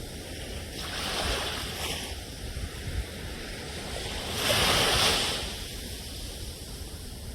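Ocean surf: waves wash in and draw back, and a louder wave breaks about halfway through.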